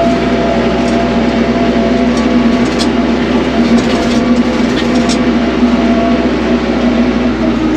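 A TYM tractor's diesel engine running steadily, heard from inside the cab with the air-conditioning blower going. A few sharp clicks come about three, four and five seconds in.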